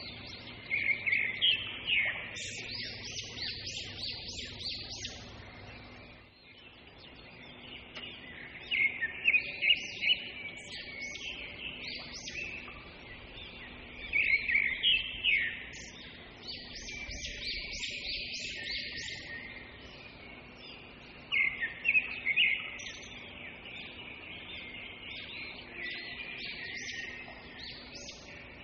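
Small birds chirping in bursts of rapid calls, a new burst every few seconds.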